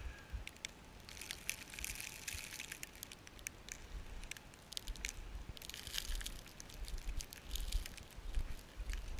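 Snow crunching and crackling underfoot while walking, coming in crisp bursts, with intermittent low rumbles of wind buffeting the microphone.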